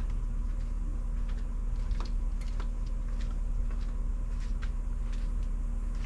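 Irregular light metallic clicks, about three a second, typical of a hand ratchet turning out the seat bolts, over a steady low hum.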